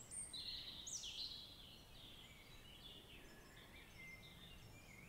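Faint birdsong: several quick chirps and warbling phrases, strongest in the first second or so, then fainter scattered chirps.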